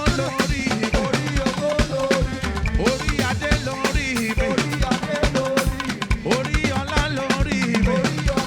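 Live band playing upbeat African gospel music with a drum kit keeping a steady beat.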